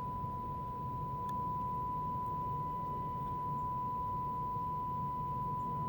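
Steady 1 kHz test tone from a Nordmende Caruso tube radio's speaker: the signal generator's modulation tone, demodulated by the set while its FM stages are aligned.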